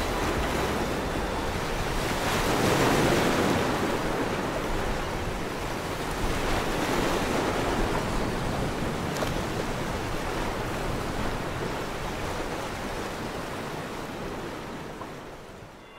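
Sea surf: waves breaking and washing in, a steady rushing that swells twice, then fades out near the end.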